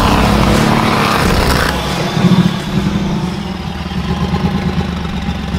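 Porsche 959 Paris Dakar rally car's twin-turbo flat-six engine running as the car drives on snow, loud for the first two seconds and then lower and uneven.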